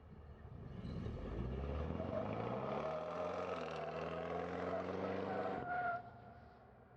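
Supercharged V8 of a 2012 Cadillac CTS-V running faintly, its pitch rising over a second or two and then holding steady before cutting off abruptly about six seconds in.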